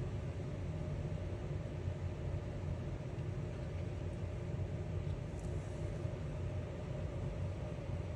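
Steady low rumbling background ambience, even throughout with no distinct events.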